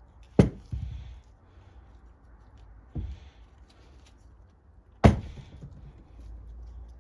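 Sharp knocks and small clatter of tools and carburetor parts being handled and set down: two loud knocks, one half a second in and one about five seconds in, with a softer knock between them.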